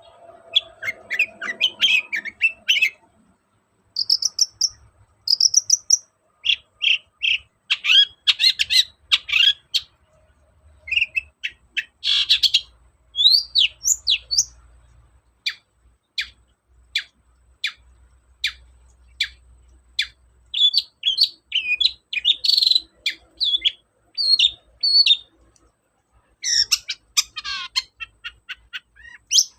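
Long-tailed shrike (cendet) singing a varied, chattering song of short chirps and sweeping notes in quick bursts, with a run of rapid, evenly spaced notes about halfway through.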